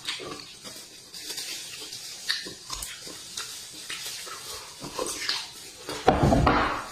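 Close-up mouth sounds of a person biting into and chewing braised beef: wet smacking and chewing clicks, with one louder, longer slurping noise about six seconds in.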